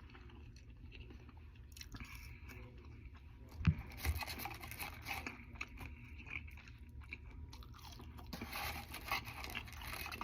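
A person chewing and biting food. There is a single low thump a little under four seconds in.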